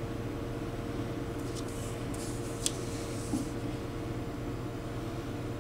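Steady mechanical hum with a faint fixed tone, with a few light clicks and brushing sounds between about one and a half and three and a half seconds in, the sharpest near the middle.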